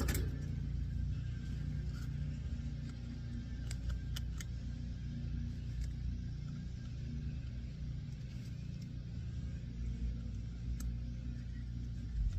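A steady low mechanical rumble, with a few light clicks.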